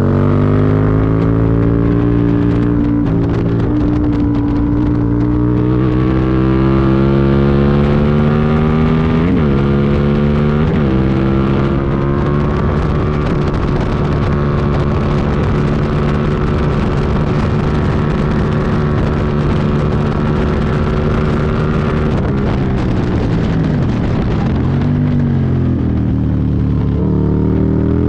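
Aprilia Tuono V2 1000's V-twin engine pulling hard at high revs under throttle, pitch holding and creeping up, with two quick sharp pitch jumps about nine and eleven seconds in. About twenty-two seconds in the revs drop off and the engine swoops down and up in short blips, as on braking and downshifting.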